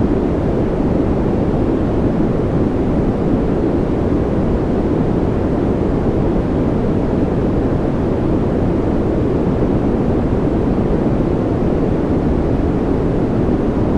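Steady, unchanging white-noise rush for a baby's sleep, deep and muffled, with its weight in the low range and little hiss on top.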